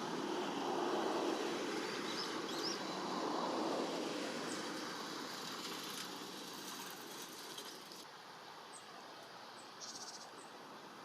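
Steady outdoor background noise, with a few short, faint high bird chirps scattered through it.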